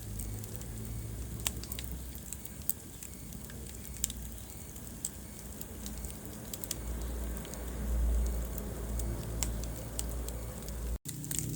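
Wood fire crackling in a fireplace: irregular sharp pops and snaps over a low steady rumble of the flames. The sound cuts out for an instant near the end.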